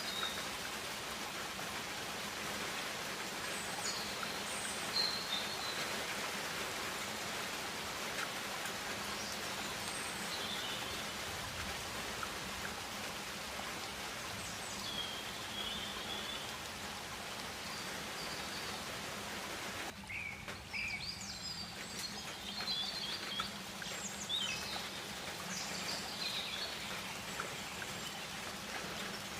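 Tropical rainforest ambience: a steady hiss with scattered short bird chirps and calls. The background hiss changes about twenty seconds in, and the birds call more often after that.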